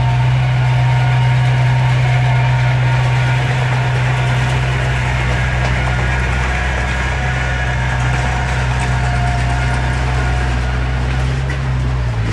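Heavy earthmoving machine's diesel engine running steadily, a deep even drone that shifts slightly just before the end.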